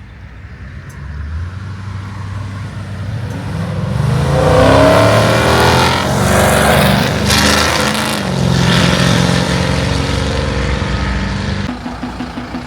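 Car engine growing louder, its note rising around four seconds in as it accelerates, then running loud before dropping off near the end.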